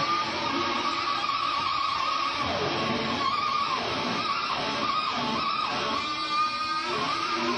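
Live rock performance led by electric guitar, with several sliding downward pitch dives in the guitar line. These are typical of the slide-guitar motorcycle imitation in this song's intro.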